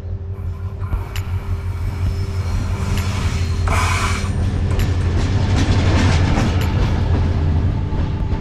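Diesel locomotive of the Baekdudaegan Canyon Train pulling slowly into a station. A steady low engine drone grows louder as it draws near, with scattered wheel clicks over the rails and a brief burst of higher-pitched noise about four seconds in.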